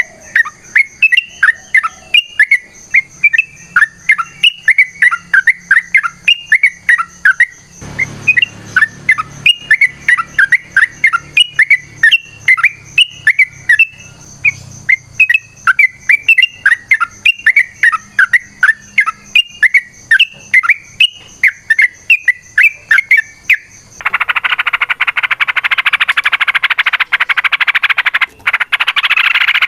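Yellow-vented bulbul (trucukan) singing a long run of quick, bubbly repeated phrases, two to three notes a second. Near the end it changes abruptly to a dense, continuous harsh chatter: the long, agitated 'ropel' fighting song.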